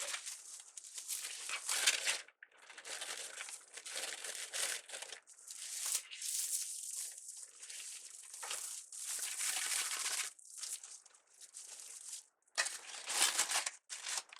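Deco mesh and ribbon crinkling as they are handled and scrunched, in irregular rustling bursts with short pauses between them.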